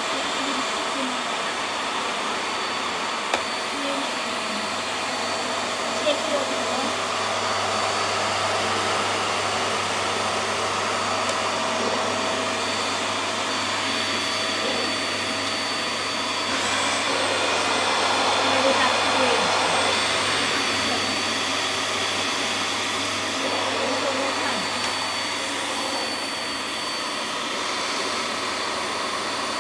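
VAX Air Stretch Pet Max upright vacuum cleaner running steadily on carpet, with a high whine over its motor noise. There are a few clicks in the first several seconds, and it gets louder for a few seconds past the middle.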